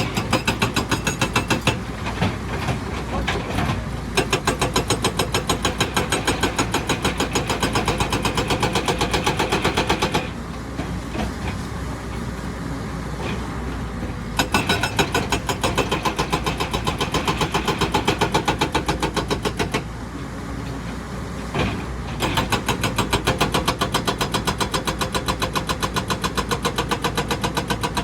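Hydraulic rock breaker on an excavator hammering rock in three long runs of rapid, evenly spaced blows, stopping twice for a few seconds, with the excavator's diesel engine running underneath.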